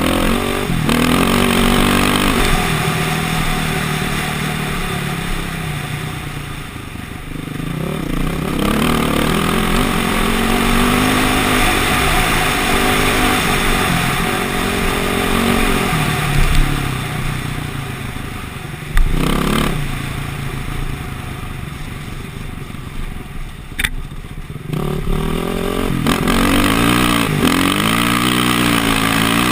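KTM motocross bike engine revving up and down as the bike is ridden off-road, the pitch rising and falling with the throttle. A few sharp knocks stand out in the second half.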